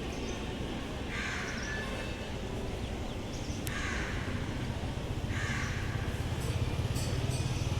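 Crow cawing three times, each call about half a second long, over steady background noise, with a low rumble growing louder in the second half.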